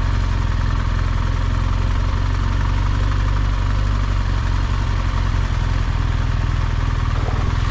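A vehicle engine running steadily at low revs, with an even hiss over it.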